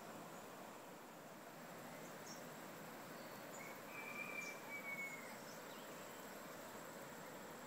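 Faint outdoor ambience: a steady low hiss under a steady high thin tone. About three and a half seconds in, a bird gives a thin, slightly falling whistle lasting over a second, with a few short high chirps around it.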